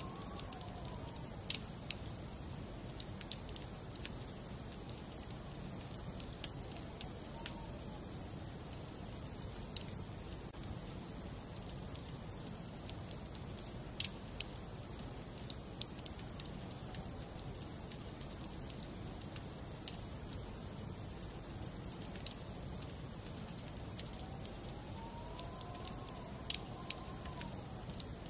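Wood fire burning in a fireplace, a steady low rush with irregular sharp crackles and pops. A faint whistling tone rises and falls near the end.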